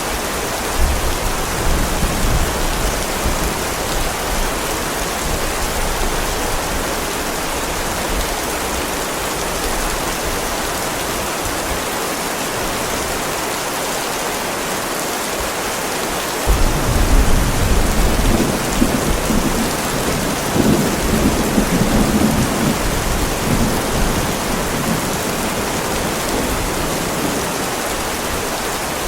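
Heavy rain falling steadily on a driveway, with two rolls of thunder: a low rumble about a second in that lasts several seconds, and a louder one that breaks in suddenly past the middle and rumbles on for about seven seconds.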